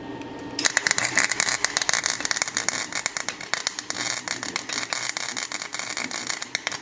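Chicago Electric welder's arc crackling steadily as it welds the exhaust tip onto steel exhaust pipe. The dense crackle starts about half a second in and stops just before the end.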